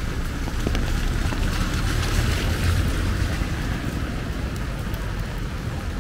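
Rain on a city street with wind rumbling on the microphone. The hiss swells for a couple of seconds about halfway through.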